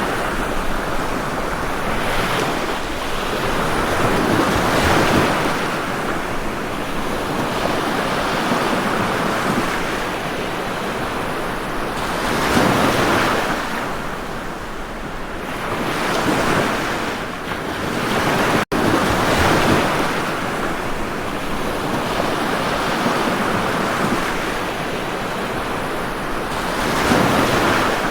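Ocean surf: waves breaking and washing ashore in a continuous rush that swells and eases every few seconds. The sound drops out completely for a split second about two-thirds of the way through.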